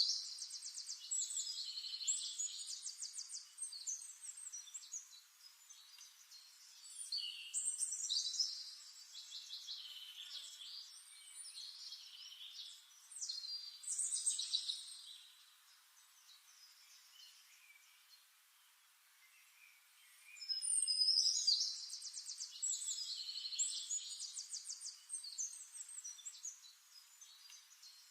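Songbird singing high-pitched phrases of rapid trills and chirps, several phrases a few seconds long, with a quiet pause of a few seconds past the middle.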